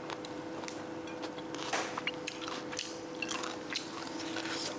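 A person chewing and biting food close to the microphone, with irregular small clicks and smacks, over a steady two-tone hum.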